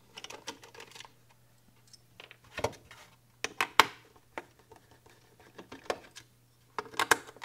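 Small clicks and taps of a screwdriver and screws being worked out of the plastic case of an electronics unit, with a few sharper knocks among the scattered handling sounds and a faint steady low hum underneath.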